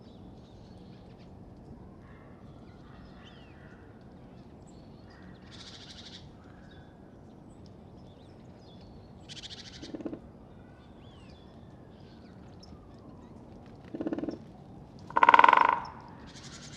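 Great spotted woodpecker drumming on an oak: short, rapid rolls of bill strikes come every few seconds, some faint and one much louder near the end. Faint calls of other birds sound in the background.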